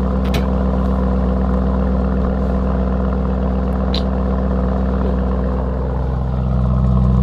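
Car engine idling steadily, with the engine note getting slightly louder near the end; a couple of brief clicks.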